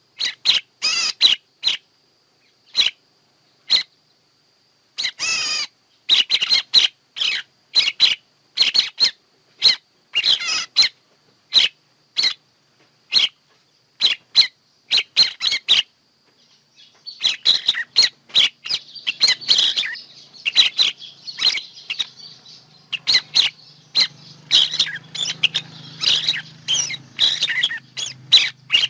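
Recorded birdsong of the kind played as a lure for bird trapping: quick, sharp, high chirps and calls in short runs, separated by dead gaps. About halfway through it becomes a denser, overlapping chatter of calls over a faint low hum.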